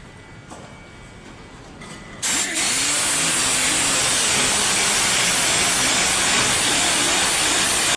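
A power tool switches on about two seconds in and runs loud and steady, then cuts off abruptly at the end.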